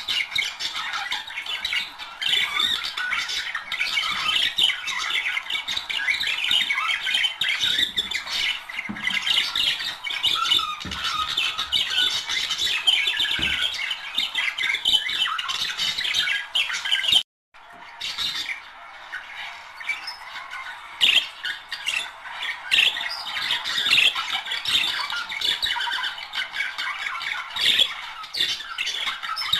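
Budgerigars chattering and warbling nonstop, a dense stream of chirps and squawks, breaking off completely for about half a second a little past halfway.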